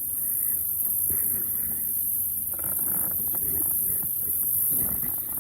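Insects buzzing in a steady, high-pitched chorus, unbroken throughout.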